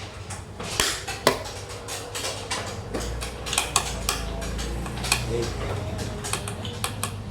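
Sharp, irregular clicks and clacks of xiangqi pieces being picked up and set down on the board during quick play, a dozen or so hits, the loudest about a second in.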